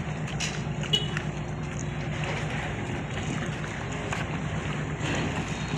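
Passenger ship's engines running with a steady low drone and throb, heard on board, under a wash of wind and water noise.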